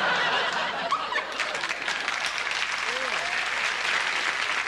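Studio audience applauding, a dense steady patter of clapping, with a few voices breaking through about a second in and again near three seconds.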